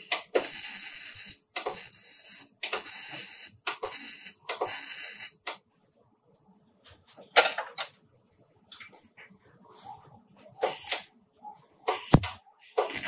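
Four bursts of loud hissing, each about a second long with short gaps between, then scattered clicks and knocks.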